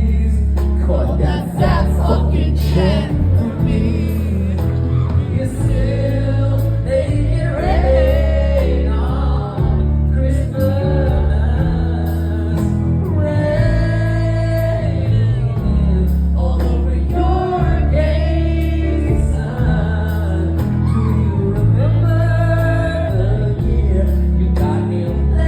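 Live pop song played loud: a singer with backing vocals over a band with a heavy, steady bass line.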